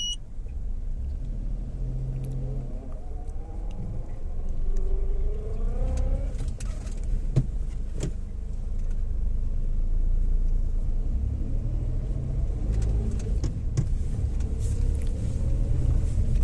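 Maruti Suzuki Alto 800's small three-cylinder petrol engine and drivetrain running at low speed, rising in pitch as the car picks up speed a few seconds in and again near the end. Two sharp clicks come about seven and eight seconds in. No rattle or vibration can be heard: the drive axle has just been repaired.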